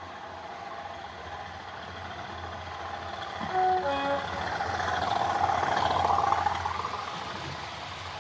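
Model diesel locomotive's digital sound decoder playing a short two-tone horn about three and a half seconds in, over a steady low engine hum. The engine sound then swells for a few seconds and falls back.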